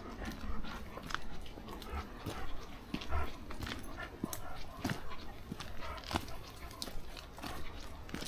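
Footsteps on a woodland path: irregular crunches and crackles of leaves and twigs underfoot, over a low rumble of wind on the microphone.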